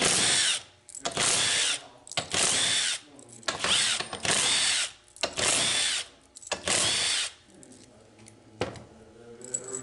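A power driver spinning in short bursts, about six of under a second each with a whine that rises and falls, as the 10 mm valve body bolts of a Ford 4R70W/4R75 automatic transmission are backed out. Small clicks follow near the end.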